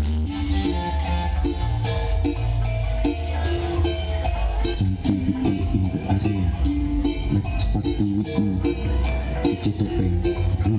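Loud music played through a carnival sound system, with heavy, sustained bass notes under a stepping melody and a steady drum beat.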